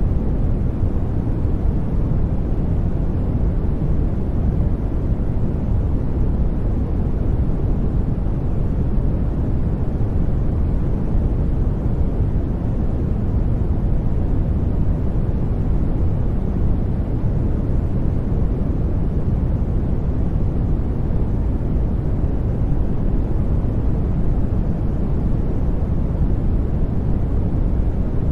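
Steady sleep-aid white noise, an even deep rumble strongest in the low end and unchanging throughout.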